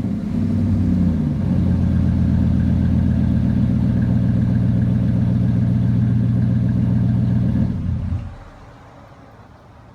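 2011 Ram 1500's 4.7L V8 through a Flowmaster Super 40 dual exhaust, settling from a rev back down to a steady idle. The engine cuts off about eight seconds in.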